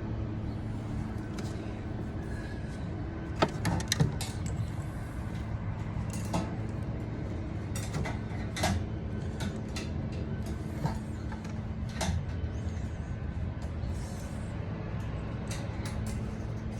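Scattered clicks and knocks of hand work on a fuel pump assembly, sharpest a few seconds in, over a steady low hum.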